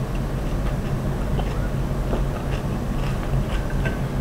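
Someone chewing a mouthful of food, with small scattered mouth clicks, over a steady low hum.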